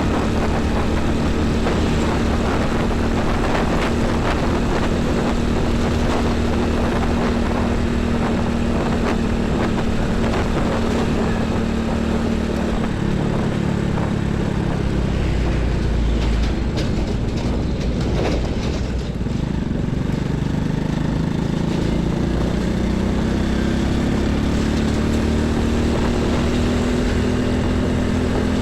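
Heavy highway traffic with diesel trucks and buses passing, a steady drone of engines and tyres. Around the middle the engine tone falls as a vehicle goes by, and near the end a new one rises in pitch.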